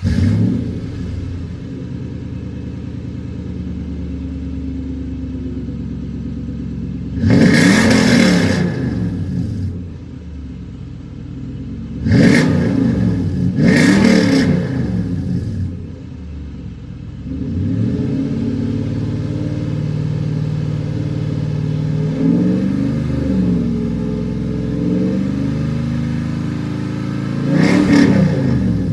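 Toyota Tundra 4.7-litre iForce V8 through a Flowmaster 50 Series muffler with the resonator deleted, catching and settling into a deep idle, then revved several times, with the pitch rising and falling on each blip. There are two strong revs close together in the middle and one more near the end.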